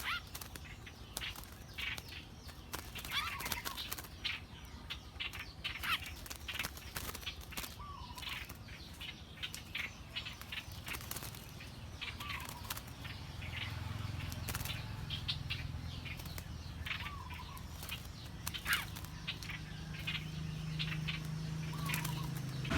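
Birds calling, a short curved note repeated every few seconds, over many sharp clicks and rustles. A low steady hum comes in around the middle and grows toward the end.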